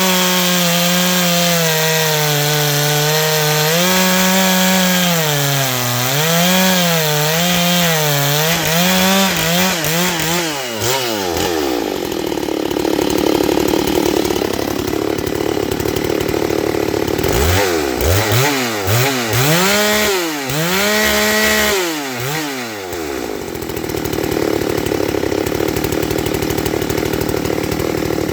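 Ported, decked Husqvarna 394XP two-stroke chainsaw cutting wood, its engine pitch wavering under load for about ten seconds. It then revs high and free, drops back and is blipped up and down several times, and revs high again near the end.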